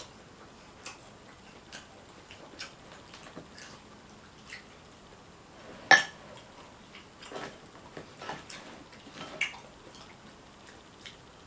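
Close-up eating sounds from a seafood boil: small wet clicks and taps of food, shells and utensils, with one much louder sharp crack about six seconds in.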